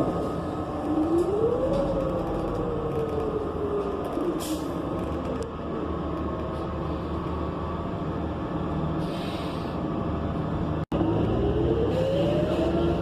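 On-board sound of a New Flyer XN40 city bus pulling away: the Cummins Westport ISL G natural-gas engine and Allison B400R automatic transmission whine, rising in pitch as the bus accelerates, then easing off. There are a few brief hisses of air, and the whine climbs again near the end.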